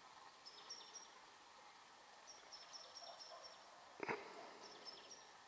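Near silence, with faint high chirps of small birds in a few short phrases and one brief knock about four seconds in.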